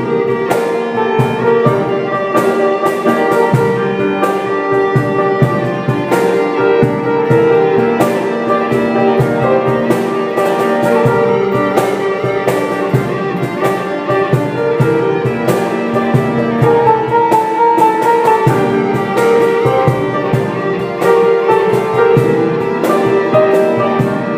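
A band playing an instrumental passage with no vocals: guitar and piano over drums, with held melody notes and a steady beat.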